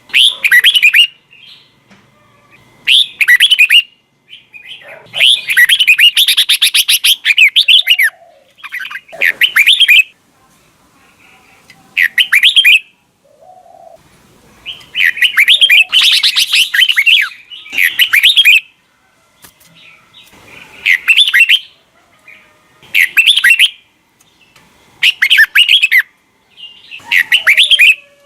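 Red-whiskered bulbul singing: short, loud warbled phrases about every two to three seconds, and twice a longer, fast chattering run of notes.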